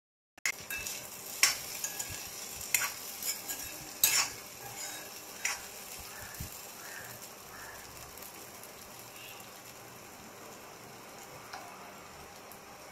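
Diced potatoes sizzling in oil in a coated kadai on a low flame while a metal spoon stirs them. The spoon knocks and scrapes against the pan several times in the first half, then only a steady soft sizzle remains.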